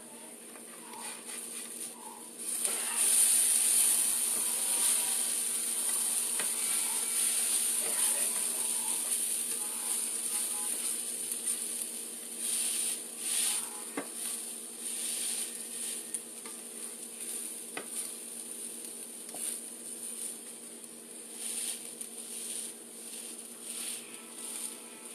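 Shredded hash-brown potatoes frying in a nonstick skillet: a sizzle that swells up a couple of seconds in and holds, then comes and goes in short bursts as a spatula presses and turns the potatoes.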